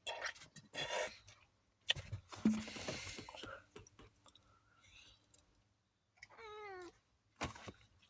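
A cat meows once, a short call with a wavering, falling pitch, about three-quarters of the way in. Before it come rustling and a few sharp clicks and knocks, the loudest of them a little after the second second.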